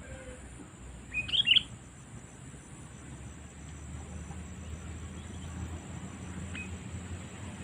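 Sooty-headed bulbul (kutilang) giving one short burst of bright call notes about a second in, then a single faint chirp later, over a steady low hum.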